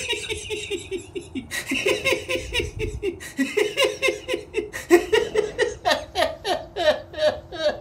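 Someone laughing in a long run of quick, high-pitched, repeated ha's.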